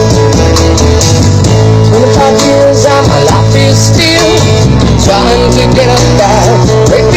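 Music played very loud through a large mobile disco sound system, with heavy steady bass and a sung melody that comes in about two seconds in.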